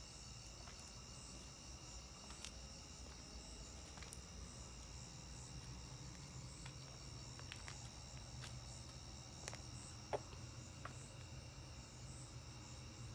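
Night insect chorus: crickets trilling steadily in several high pulsing tones, over a faint low hum. A few sharp clicks break in, the loudest about ten seconds in.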